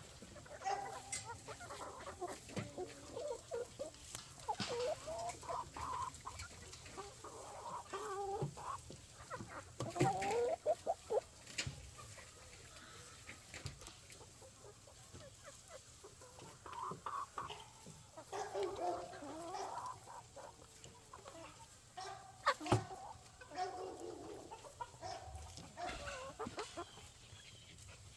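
A flock of chickens clucking and calling, in repeated short bursts, with a few sharp knocks or taps mixed in.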